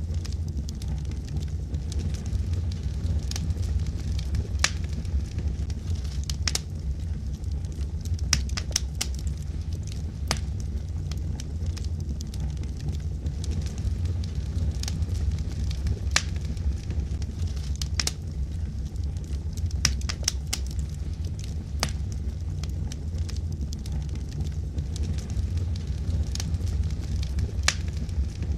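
Wood fire burning in a fireplace: logs crackling and popping in sharp, irregular snaps over a steady low rumble of the flames.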